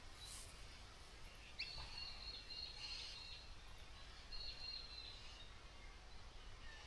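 Birds calling faintly over low background noise: a high, drawn-out whistled call about a second and a half in, and a shorter one again around four seconds in.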